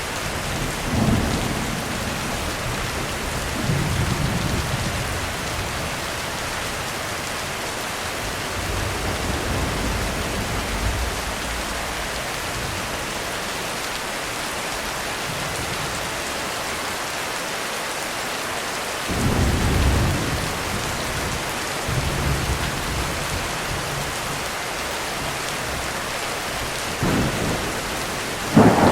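Heavy rain drumming steadily on a roof, with several low rolls of thunder rising and fading through it; the loudest thunder crack comes right at the end.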